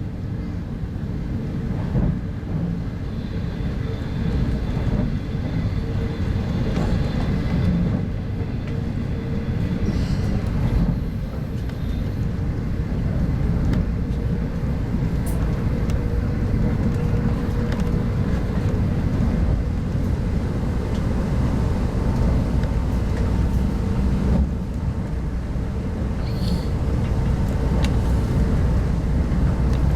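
Running noise inside a 25T passenger coach of a loco-hauled train at speed: a steady low rumble of wheels on track and a faint steady hum, with a few light clicks here and there.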